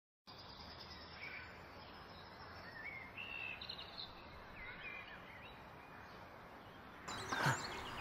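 Faint songbird song, several short whistled phrases in the first half, over quiet woodland background noise. About seven seconds in the background shifts and a short, louder sound is heard.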